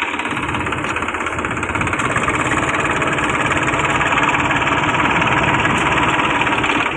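Tractor diesel engine running steadily, getting slightly louder about two seconds in.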